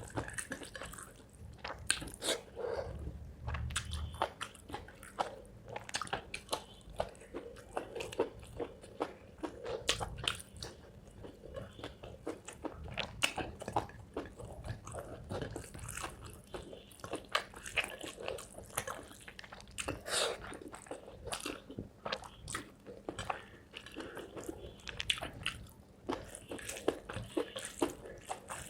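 Close-up chewing, with many sharp crunches and wet mouth clicks scattered throughout: a person eating spicy chicken liver, gizzard and feet curry with rice.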